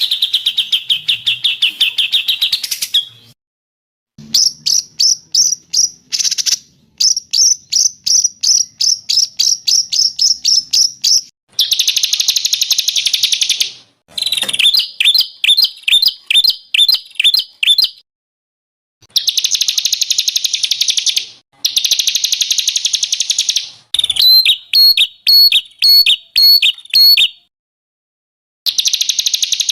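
Recorded songbird song: a string of separate high-pitched phrases of rapid repeated chirps and dense buzzy trills. Each phrase starts and stops abruptly, with short silent gaps between them, as in an edited sequence of recordings.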